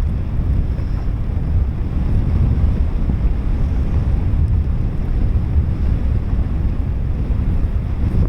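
Loud wind buffeting the microphone in paraglider flight: a dense low rumble that swells and dips continuously.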